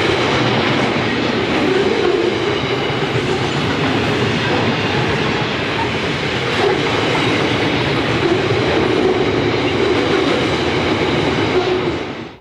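Railway wagons rolling past close by: a steady rumble of wheels over the rails with clickety-clack from the rail joints and thin, high steady tones from the wheels. It cuts off suddenly at the very end.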